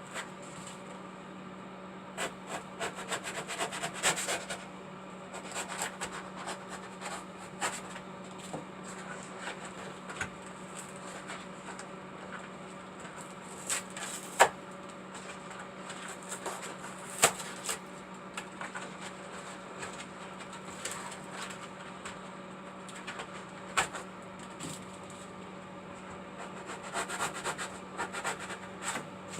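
Hand-cutting and scraping while carving out a turtle-waterfall piece a little at a time: bursts of rubbing and scraping, with a few sharp clicks. A steady low hum runs underneath.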